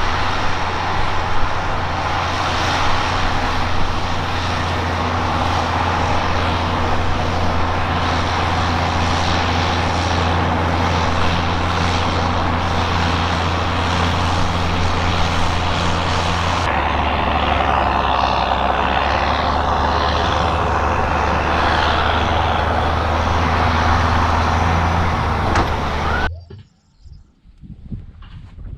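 Farm machinery engine running steadily with a low hum, changing to a slightly different engine sound at a cut about two-thirds of the way through, then dropping away suddenly near the end to a much quieter background.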